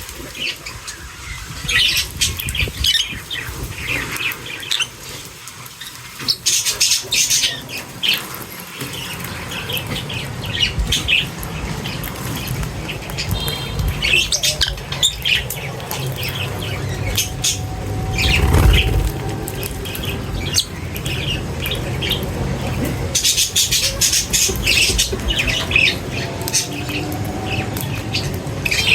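A flock of birds chirping and squawking, many short calls overlapping, with busier flurries of calls about seven and twenty-four seconds in, over a steady low rumble.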